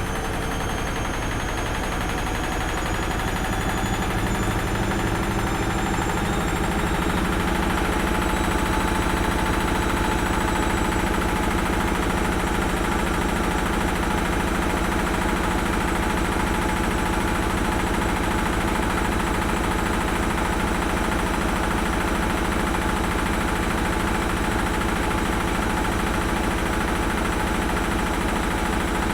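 Washing machine running: a steady mechanical hum and rumble, with a high motor whine that rises in pitch over the first several seconds and then holds steady.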